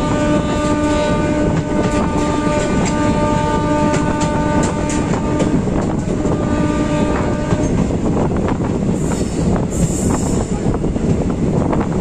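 A passenger train running at speed, heard from on board: a steady rumble with wheels clacking over rail joints. A train horn holds one long steady note that stops about seven and a half seconds in.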